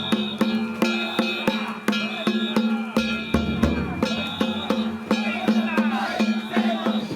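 Danjiri festival music: taiko drums and hand gongs struck in a quick, steady rhythm, the gongs ringing on. Voices call over it around the middle.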